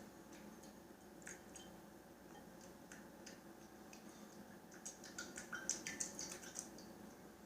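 Small, scattered splashes and drips of water as an animal splashes in it, with a quicker, louder flurry of splashes about five to six and a half seconds in. A steady low hum lies underneath.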